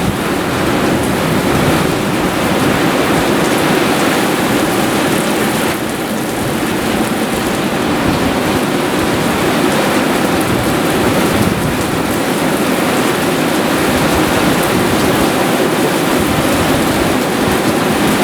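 Heavy downpour during a thunderstorm: a loud, steady hiss of rain pouring down and hitting surfaces, with no letup.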